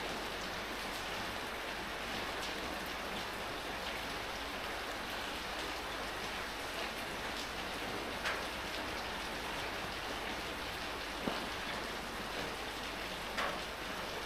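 Steady rain falling, an even hiss of rain on surfaces, with a few louder single drops or drips ticking now and then, the plainest about 8, 11 and 13 seconds in.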